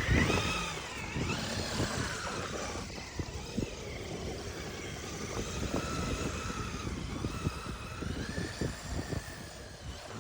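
Traxxas RC car's motor running, its pitch rising and falling repeatedly as the throttle is worked, over a low rumbling noise.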